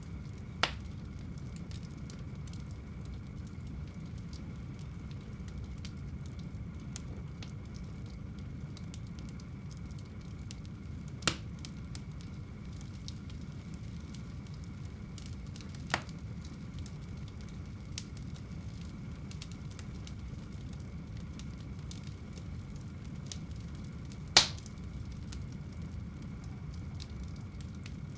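Wood fire burning in a home fireplace: a steady low rumble of flames with constant faint crackling, and a few sharp pops of burning wood, the loudest near the end.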